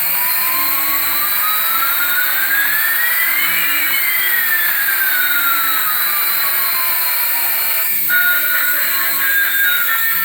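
Jet engine sound: a rushing hiss with a whine that rises in pitch for about four seconds, then falls for about four more, stopping about eight seconds in.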